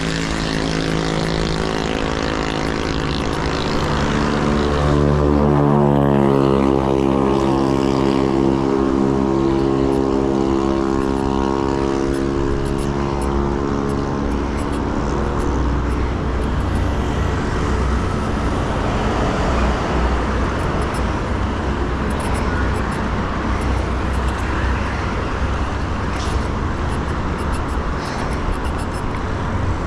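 Heavy vehicle's engine droning close by, its pitch bending up and down as it passes, fading out about halfway through. After that, a steady rush of traffic and wind noise.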